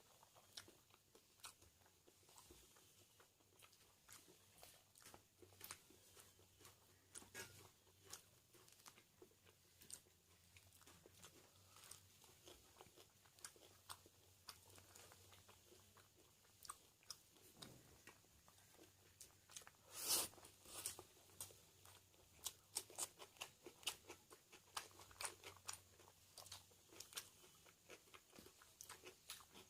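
Close-miked eating: chewing with many sharp, irregular crunches of food, the loudest cluster about two-thirds in.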